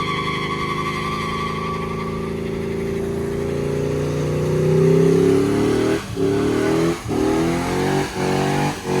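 Car engine revving hard: the engine note climbs steadily, then the throttle is pumped in a run of rev bursts about once a second.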